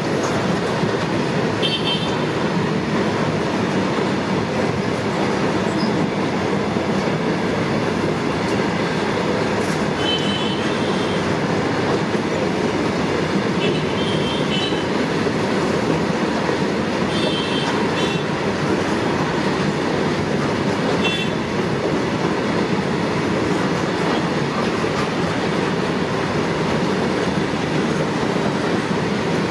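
A long rake of covered freight wagons rolling past close by, a steady heavy rumble of wheels on rail. Brief high wheel squeals cut in several times.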